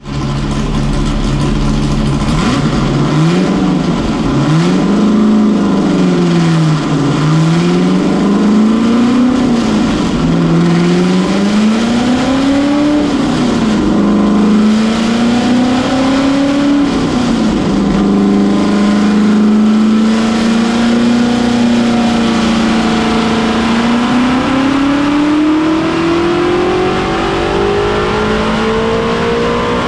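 A Chevy S10 burnout truck's freshly built engine is revved in a series of quick blips, then held at steady high revs and slowly pushed higher, on a Holley setup being tuned for a soft rev limiter.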